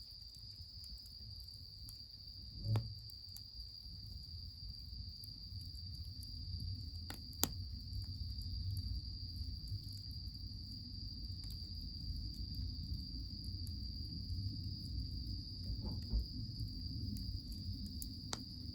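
A steady, high insect trill over a low, steady rumble, with the wood fire under a goemon-buro bath crackling in a few sharp pops about seven seconds in and near the end, and two soft thumps near three and sixteen seconds in.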